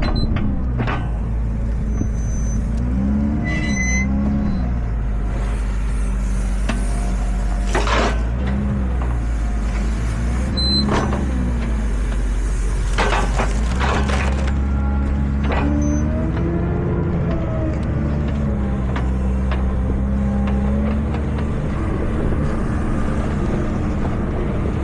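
Tractor engine running steadily under load, its revs rising and falling, with a few short hissing or clattering bursts.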